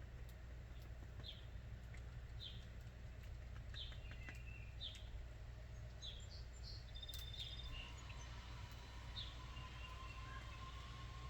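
Backyard wild birds calling, one giving a short high chirp about once a second, with other brief notes, over a steady low rumble. From about two-thirds of the way in, a long, steady, slightly rising distant tone joins in.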